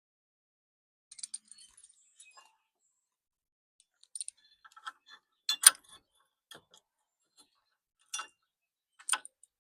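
Loose steel bolts and bumper hardware clinking as they are handled and sorted: scattered light clicks, a sharper clink about halfway through and two more near the end.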